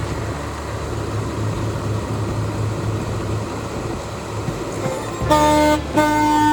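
Car horn of a 1966 Pontiac GTO sounding two short blasts about half a second apart near the end, over a steady low hum.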